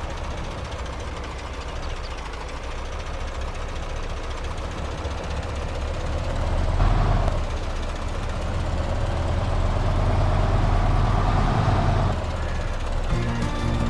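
A radio-controlled model machine running: a motor whine rises and falls in pitch twice over a steady low hum.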